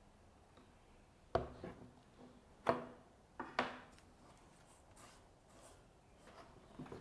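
Handling noise from a workpiece and jig on a bench: three sharp knocks about a second apart in the first half, with lighter scrapes and taps between and after.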